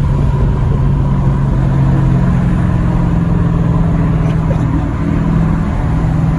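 Straight-piped Dodge Challenger exhaust droning at a steady cruise, a low rumble with a slight change in pitch about five seconds in.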